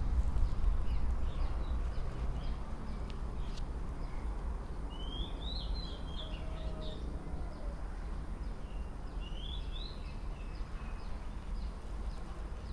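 Birds chirping outdoors: a steady run of short repeated chirps, with two louder warbling phrases about five and nine seconds in, over a low rumble that eases off in the first few seconds.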